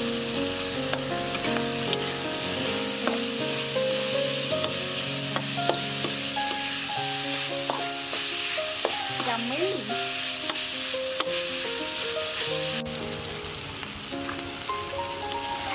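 River snails in their shells frying and sizzling in a wok with a pounded Khmer herb paste (kroeung), stirred steadily, with an occasional sharp tick from the pan.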